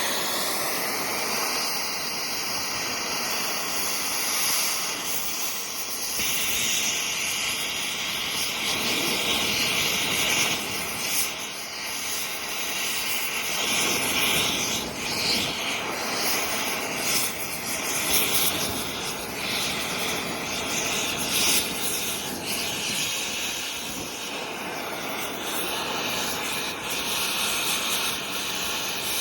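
Oxy-acetylene torch flame hissing steadily as it melts down a pistol, with brief pops and crackles now and then.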